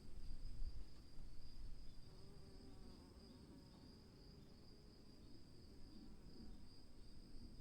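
Faint forest ambience: a steady high-pitched insect chorus over a low rumble that is louder for the first couple of seconds.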